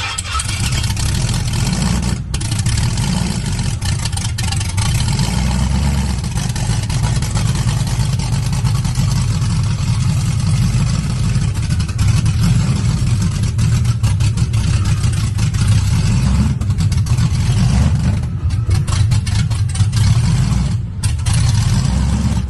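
Cadillac V-series engine running through its old aftermarket exhaust, a loud, steady low rumble.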